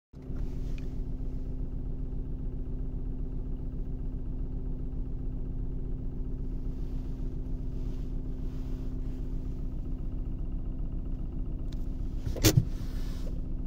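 Ford B-Max 1.0 EcoBoost three-cylinder engine running steadily at low revs. This is the range below 1000 rpm where the owner hears a clacking from the passenger side, around the glovebox. Near the end there is one short, loud knock.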